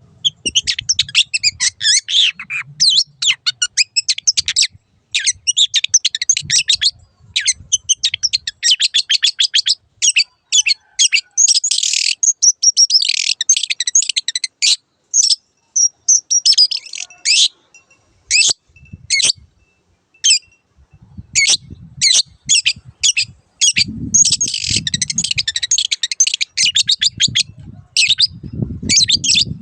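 Long-tailed shrike singing a fast, chattering song of quick high chirps in dense runs. Short pauses and a stretch of single, spaced notes break up the runs.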